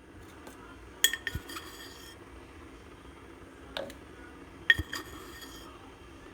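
Kitchenware clinking: a few sharp, ringing clinks about a second in, a single one just before the middle, and another short cluster near five seconds, over faint room tone.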